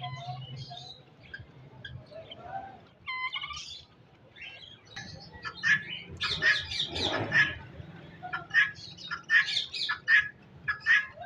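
Budgerigars chirping and chattering in short, rapid calls, which grow busier and louder about halfway through.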